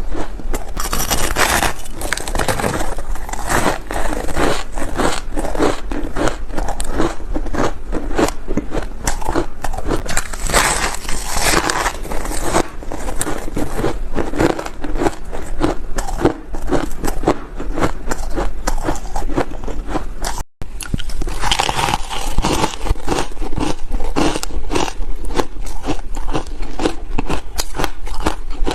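Ice chunks being bitten and chewed close to the microphone: a rapid, continuous run of crisp crunches that breaks off for an instant about twenty seconds in.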